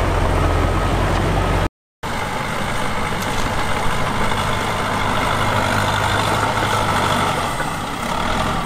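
Heavy-equipment diesel engines running steadily. The sound cuts out completely for a moment a little under two seconds in, and when it comes back the engine sound is less deep.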